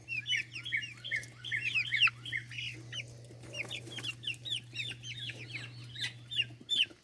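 A flock of chickens peeping and clucking: many short, falling chirps overlapping several times a second. A steady low hum runs underneath and stops shortly before the end.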